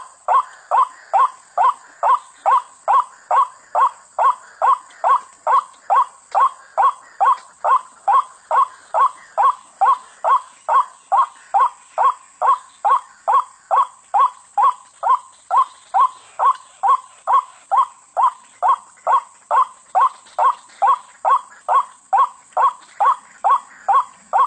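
White-breasted waterhen (ruak-ruak) calling: one short, harsh note repeated at a very even pace, about two a second, without a break.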